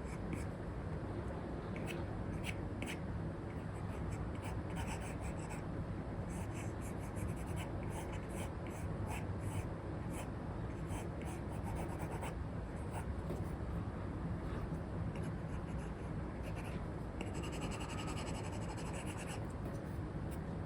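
An Apple Pencil nib scratching and tapping on an iPad's paper-like screen film in short sketching strokes, over a steady background hiss. The strokes come in bursts, with a busy run of quick strokes near the end.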